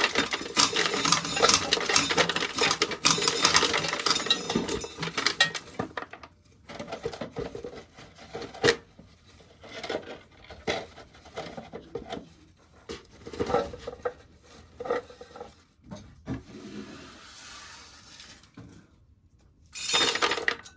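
Corn sheller at work, dry kernels clattering into a metal coffee can and tin pan. A dense rattle lasts for about the first six seconds, then gives way to scattered clicks and short rattles, with one more loud burst of rattling near the end.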